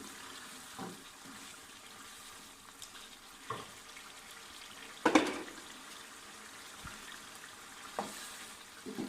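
Yogurt chicken curry sizzling in an uncovered pan as it is fried down after its liquid has cooked off, with a steady hiss. A spoon stirs and scrapes the pan about five times, loudest about five seconds in.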